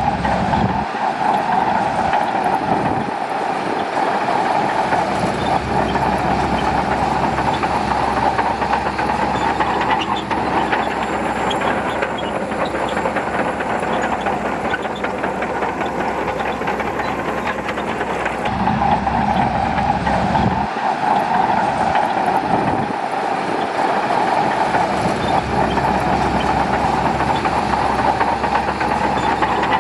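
Shantui crawler bulldozer working: diesel engine running steadily under load with the tracks clanking. The deep rumble drops away for a few seconds at a time and comes back.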